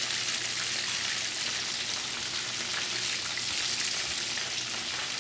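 Marinated chicken pieces deep-frying in hot oil in a pan: a steady sizzle. The pieces have fried for about four to five minutes and are ready to come out.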